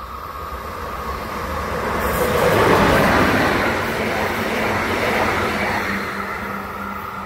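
Electric passenger train, a locomotive hauling double-deck coaches, passing on the far track. The rush of wheels on rails swells to its loudest about three seconds in and then slowly fades, with a steady hum running under it.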